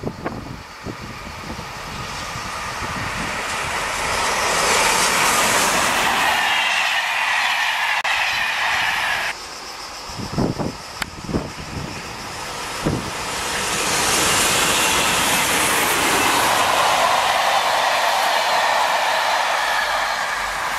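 Electric trains passing on the line: first a loco-hauled Intercités passenger train approaching and going by with a growing rush of wheels on rail, then, after an abrupt break about nine seconds in and a few low thumps, a freight train of tank wagons headed by two BB 27000 electric locomotives running past, its wheel noise building and holding loud to the end.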